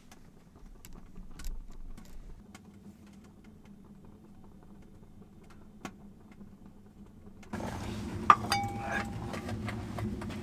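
Scattered light clicks and taps, then, from about seven and a half seconds in, metal cookware and utensils clinking on the wood stove, with one short metallic ring.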